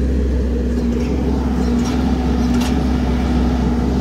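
Diesel engine of a piece of earthmoving equipment running steadily, a constant drone with a low rumble and a few faint ticks.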